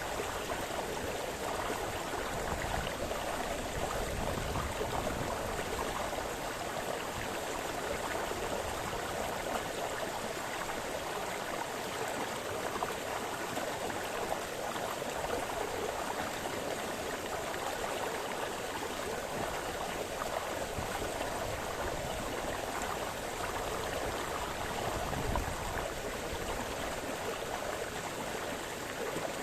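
Small forest brook splashing and gurgling over stones, a steady rushing of water.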